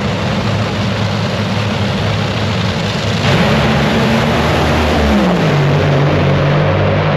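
Top Fuel dragsters' supercharged nitromethane V8 engines running loud. The sound gets louder about three seconds in, and its low pitch falls away about two seconds later.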